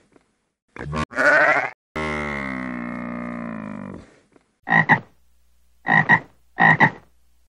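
Highland cattle mooing: two short calls about a second in, then one long low moo. After that, a tree frog croaking in short double pulses, three of them about a second apart.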